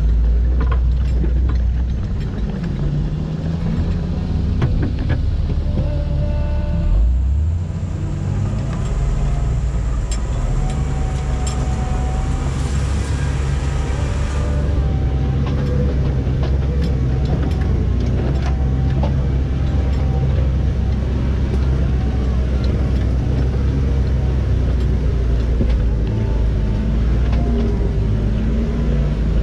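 Jeep engine running steadily at low revs during slow rock crawling, with scattered clicks and knocks over it.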